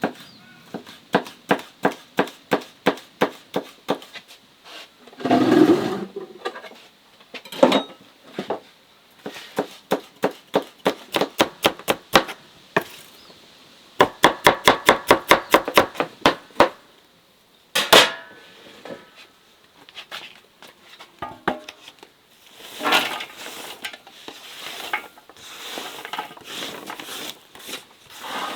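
Knife chopping vegetables on a cutting board in runs of even strokes, about three a second, quickening to about five a second around the middle, with one louder knock partway through and looser clatter near the end.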